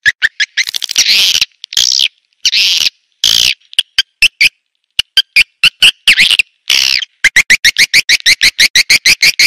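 Recorded swiftlet calls played as a lure: rapid chirps repeated several times a second, broken by short buzzy twittering calls with brief silent gaps between them.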